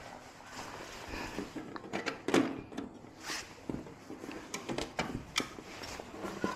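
Irregular clicks and knocks of hard objects, short and sharp, coming in uneven clusters.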